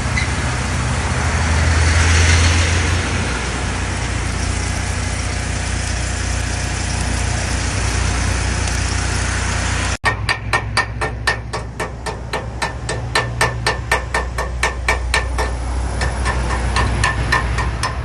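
An engine running steadily, swelling briefly about two seconds in. After an abrupt cut about halfway through, a hammer beats on metal in a fast, even rhythm of about three or four ringing blows a second while the engine keeps running.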